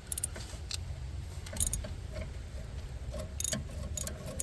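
Socket and ratchet clicking and clinking against metal as a socket is worked onto a spark plug that it will not seat on: a handful of sharp clicks at irregular intervals over a low steady rumble.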